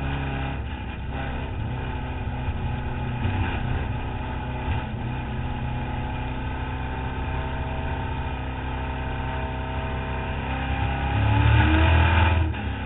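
Competition car's engine running under load, heard from a bonnet-mounted camera, its tones holding fairly steady and then rising in pitch and growing louder near the end before dropping off sharply.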